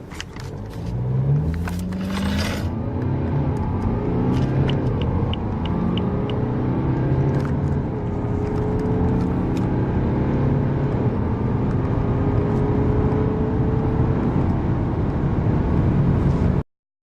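Car engine accelerating hard from a standstill, its pitch climbing and then dropping at each of several gear changes, with a run of light ticks about four seconds in; it cuts off suddenly near the end.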